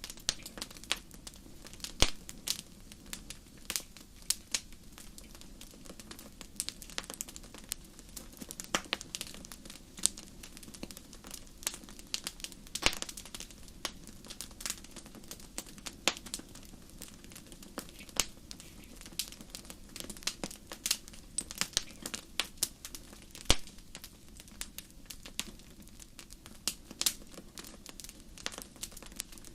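Wood fire crackling in a fireplace: irregular sharp pops and snaps over a low, steady hiss.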